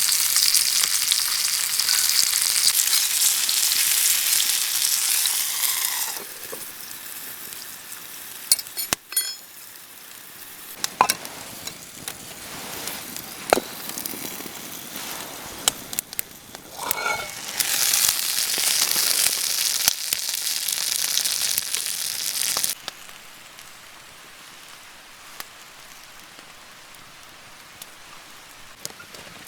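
Food sizzling in a hot pan: a loud frying hiss for about six seconds, then a quieter stretch with scattered clicks and taps, then a second burst of sizzling for about five seconds that stops abruptly.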